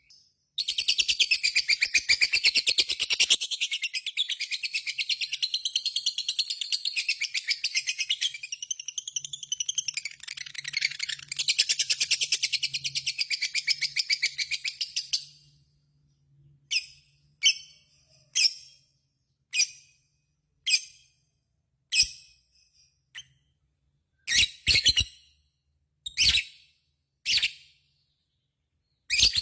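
Lovebird giving its long 'ngekek' chatter: a very rapid, unbroken run of sharp high notes lasting about fifteen seconds, then breaking into single short shrill calls about once a second.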